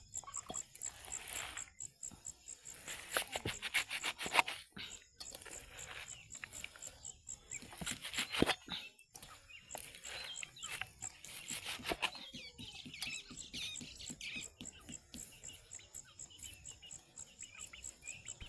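Outdoor rural ambience: birds chirping over a steady high insect pulsing, with scattered clicks and taps.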